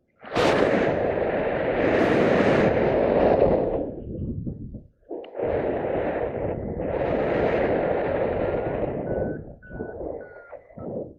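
Wind buffeting the microphone hard: a loud, unpitched rumble in two long spells, broken by a brief drop about five seconds in.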